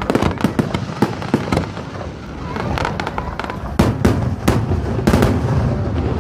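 Aerial fireworks going off in quick succession, a string of sharp bangs and cracks, with the heaviest bangs coming about four to five seconds in.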